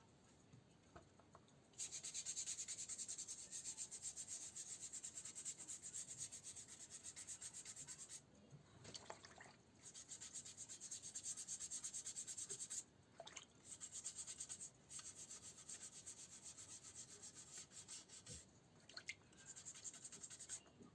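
Hand sanding of a wooden clock case with sandpaper, in quick back-and-forth strokes. It comes in three spells with short pauses between them.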